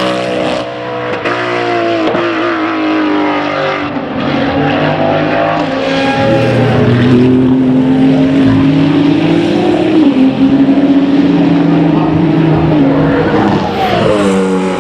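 Race car engines on track. One car passes with its engine note falling in pitch, another accelerates with a rising note and shifts up about ten seconds in, and near the end another car goes by with a falling note.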